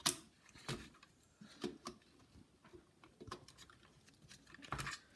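Scattered light plastic clicks and knocks as a laptop motherboard is handled and fitted back into the chassis, the sharpest right at the start.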